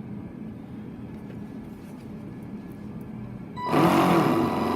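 Traxxas Blast RC boat's electric motor throttled up out of the water, spinning the propeller with a loud whine that starts suddenly about three and a half seconds in, over a low hum.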